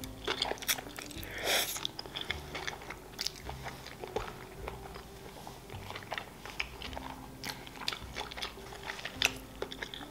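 Close-miked chewing of a mouthful of sushi roll, with many small wet clicks of the mouth.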